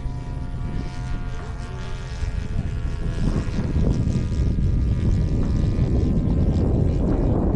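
Engine and propeller of a radio-controlled model Piper Cherokee airplane buzzing in flight. From about three seconds in, a low rumble of wind on the microphone grows louder and covers it.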